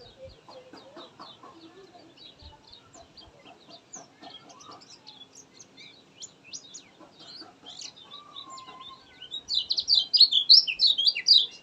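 Kecial kuning white-eye singing: a rapid run of short, high chirps that breaks into a louder, dense chattering burst near the end.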